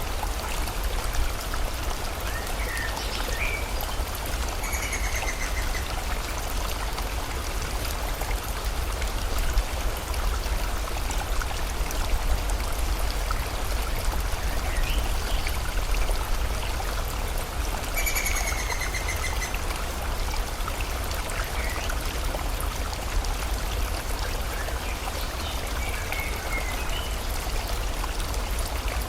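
Steady rush of a river with rain falling, and a small bird calling in short trilled phrases, most clearly about five and eighteen seconds in, with fainter chirps between.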